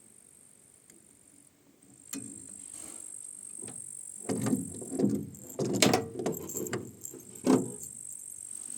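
Rowboat oars at work: a run of several strokes in the second half, with oarlocks creaking and oar blades splashing, over a steady high hiss.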